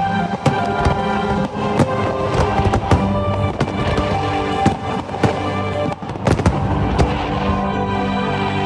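Aerial fireworks bursting: a rapid, irregular run of sharp bangs and crackles, over loud music.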